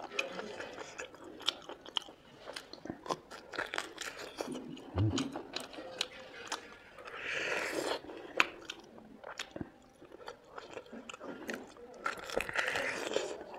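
Close-up chewing and biting of cooked buffalo meat, with many sharp crunching clicks.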